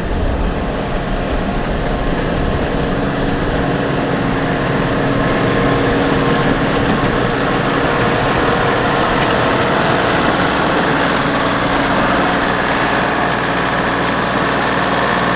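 John Deere 3046R compact tractor's diesel engine running steadily. It grows a little louder over the first several seconds, then holds steady.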